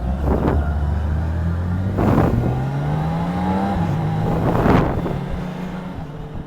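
Motorcycle engine running under way and accelerating, its pitch climbing for a couple of seconds and then dropping back as it shifts up. Three brief rushes of noise pass over it, the loudest near the end.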